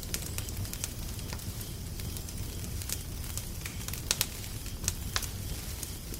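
Wood fire crackling: irregular sharp pops and snaps, the loudest a little past the middle, over a steady low rumble.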